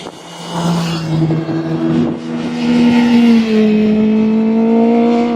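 Sport motorcycle engines running at high revs on a race track, a sustained engine note that holds its pitch with small shifts.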